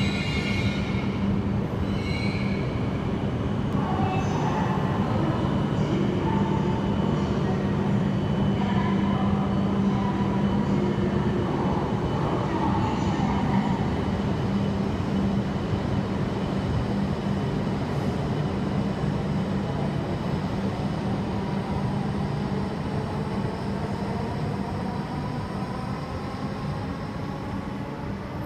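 E5-series Shinkansen train pulling out of the station and moving away. A steady hum through the first half gives way to an electric whine that rises in pitch as the train accelerates, growing fainter near the end.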